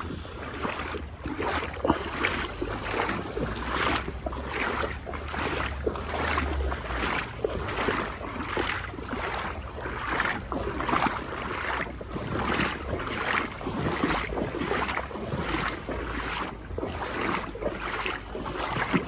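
Someone wading steadily through deep floodwater, with a splash and slosh at each stride, about three strides every two seconds. Wind rumbles on the microphone underneath.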